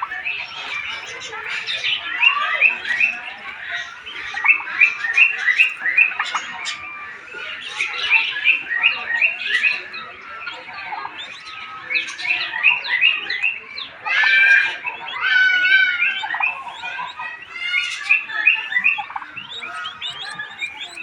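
Many birds chirping and squawking together in continuous, overlapping chatter.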